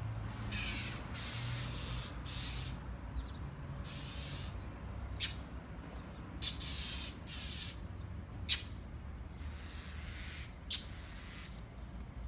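Birds giving harsh, raspy calls, about seven in a row, each lasting around half a second, with a few short, sharp chirps in between.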